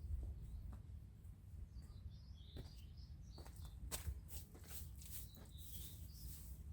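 Birds chirping against a steady low outdoor rumble, with a few sharp clicks scattered through.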